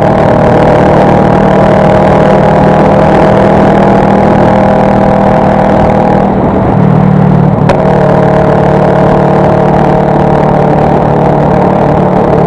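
Motorcycle engine running steadily under way, heard from on board as a loud, continuous drone with a haze of road noise. About halfway through, the engine note shifts, and a single sharp click follows.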